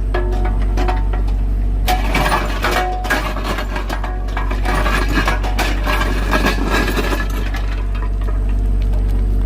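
An excavator's engine runs steadily under irregular cracking, clinking and clattering as rock is broken. The breaking is heaviest from about two seconds in until near the end.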